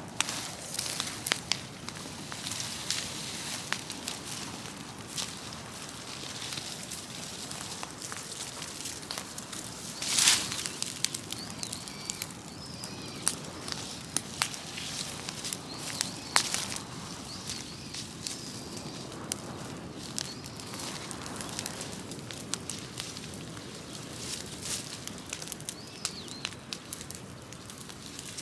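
Large bonfire of cut trees and brush burning, a steady crackle with frequent sharp pops and one loud pop about ten seconds in.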